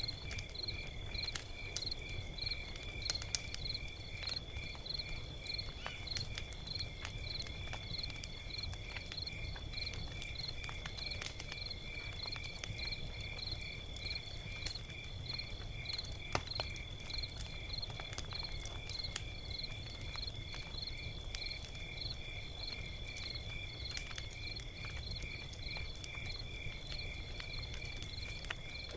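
Log fire crackling with scattered sharp pops over a low steady rumble, with crickets chirping throughout in a steady, evenly pulsed high trill.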